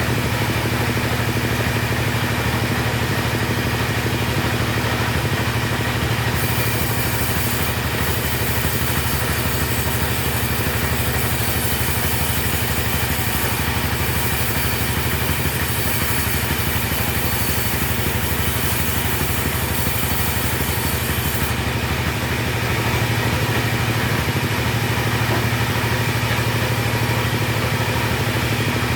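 Two-stroke chainsaw running steadily and sawing timber; from about six seconds in to about twenty-one seconds a bright hiss of the chain cutting wood rides over the engine, then the engine runs on without it.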